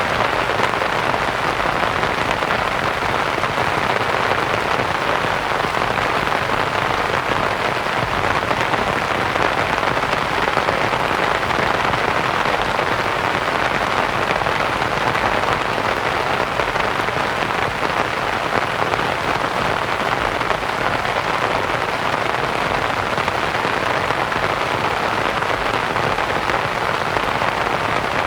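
Steady rain pattering on a canvas tent, mixed with soft white noise, an even hiss with no breaks.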